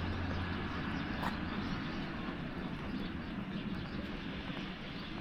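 A train's rumble and running noise, slowly fading away, with a faint click about a second in.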